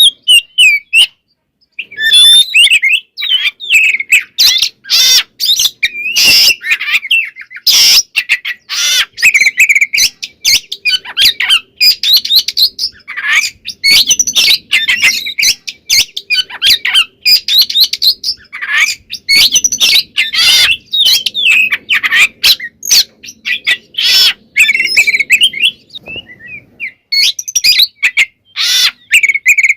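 Oriental magpie-robin (kacer) in full song: a fast, varied stream of whistles and harsh notes with mimicked phrases, broken by brief pauses about a second in and again near the end.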